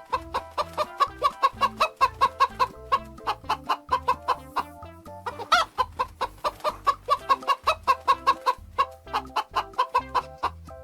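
A hen clucking, a rapid run of short clucks, over a light background tune.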